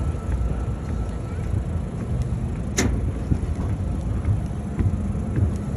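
Low, steady engine rumble, with a single sharp click a little under three seconds in.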